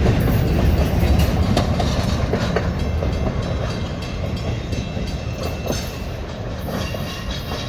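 Train rolling past with a steady low rumble and scattered clacks of wheels over the rails, growing fainter as it moves away.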